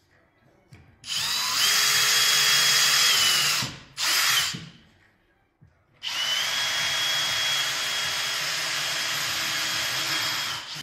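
Electric power saw cutting scrap wood: the motor spins up and runs for about two and a half seconds, gives a short burst, then runs again for about five seconds. Its whine rises as it starts each time and drops away as it stops.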